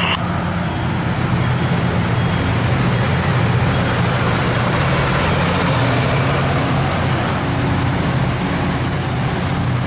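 Steady rumble and rushing noise of a moving vehicle, with a low hum under it.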